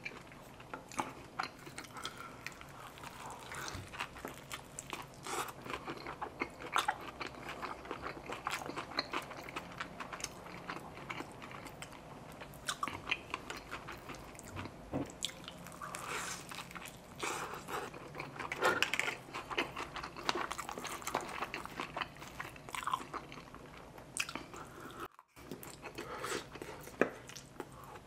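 Close-miked eating of a crispy fried fish taco: biting and chewing, a steady run of small crisp crunches and wet mouth sounds, with a few louder crunches past the middle. The sound cuts out for a moment near the end.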